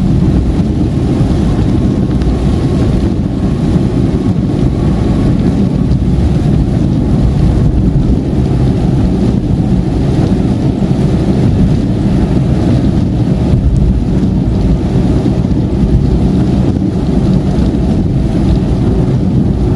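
Steady rumbling road noise inside a moving car on a wet motorway in heavy rain: tyres on the wet surface, rain on the car and the engine running together, strongest in the low end.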